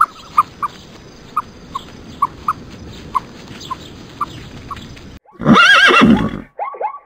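Plains zebra's loud whinnying call, about a second long with its pitch rising and falling, starting about five seconds in and followed by short falling calls. Before it come short high chirps about twice a second over a faint hiss.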